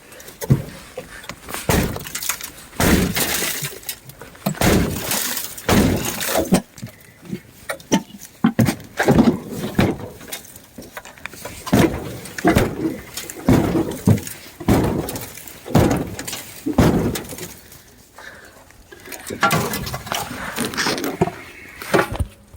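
Irregular crunching and cracking, many sharp strokes in a row with short pauses: brittle material such as rusted metal, ice or brush being broken and stepped through.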